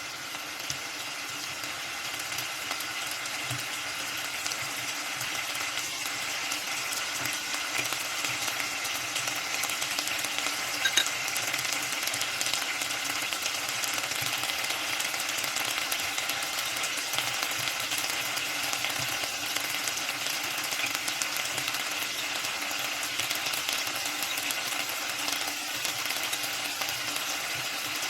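Food frying in a hot pan: a steady dense crackling sizzle that grows a little louder over the first several seconds, with one sharp tick about eleven seconds in.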